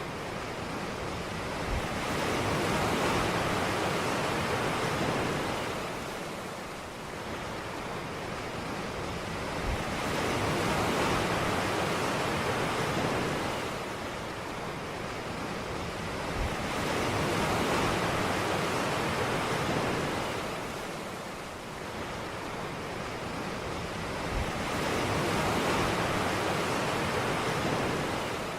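Ocean surf: waves breaking and washing up a beach, the rush swelling and easing about every seven to eight seconds, four times.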